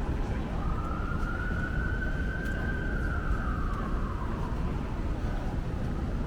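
Emergency vehicle siren wailing: its pitch rises about half a second in, holds, then falls back around four seconds in. Steady street traffic rumble runs underneath.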